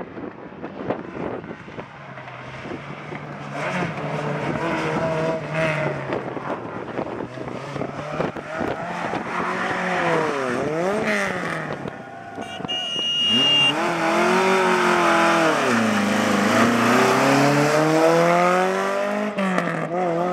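Rally car engine driven hard: revs climbing and dropping repeatedly as it accelerates, brakes and changes gear through corners, loudest in the second half as it pulls away up through the gears.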